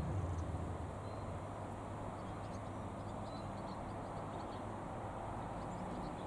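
Piper PA-28-236 Dakota's six-cylinder Lycoming piston engine droning as the light aircraft recedes after a flyby, fading over the first second and then holding as a faint, steady distant hum.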